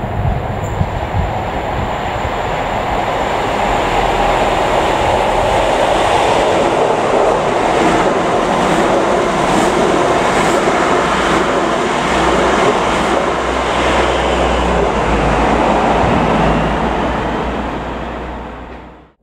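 East Midlands Railway HST with class 43 power cars passing through the station at speed without stopping: a rush of train noise that builds over the first few seconds, then holds loud as the coaches run by, with clicks from the wheels. It fades away near the end.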